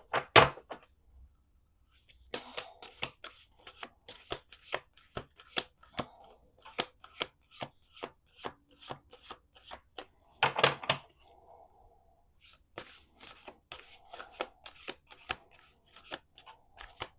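Oracle deck being shuffled by hand: a long run of quick, sharp card slaps and riffles, after a short pause about a second in.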